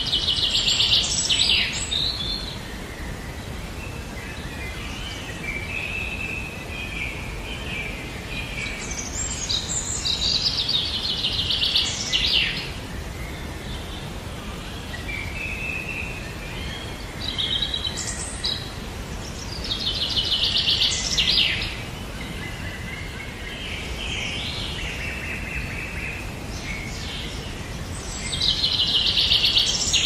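Songbirds singing: a loud, fast-trilled song phrase about every nine seconds, with softer chirps between, over a steady background hiss.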